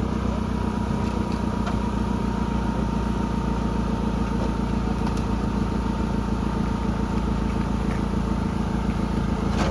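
Engine of a 4x4 off-road vehicle running steadily at a constant speed, with a few faint ticks over it.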